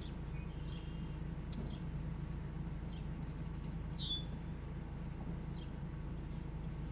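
Small birds chirping: a handful of short, high chirps scattered through, the strongest a quick falling chirp about four seconds in, over a steady low rumble.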